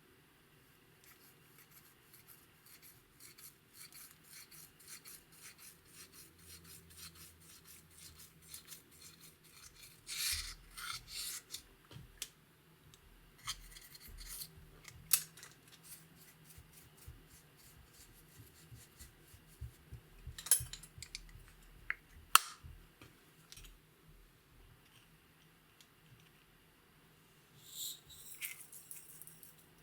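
Makeup and slime being worked by hand: soft scraping and rubbing with a rapid run of small clicks. A few sharper, louder clicks come about 15, 20 and 22 seconds in.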